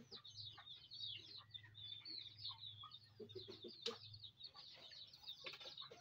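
Faint chatter of small birds: many short, high chirps overlapping one another, over a low steady hum.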